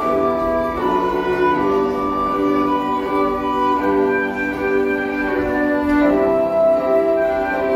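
Violin music: a slow melody of long bowed notes, changing pitch about once a second.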